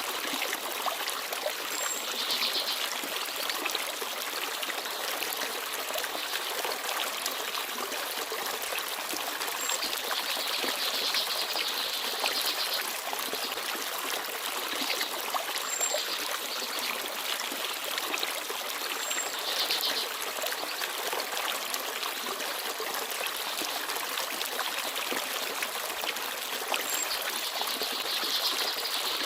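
Small forest stream babbling and trickling steadily, with a few brief, high bird chirps scattered through it.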